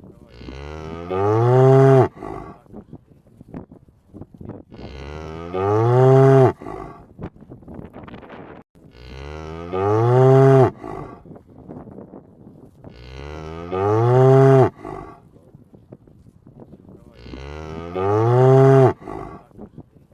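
A cow mooing: five long moos of the same shape about four seconds apart, each rising and then falling in pitch.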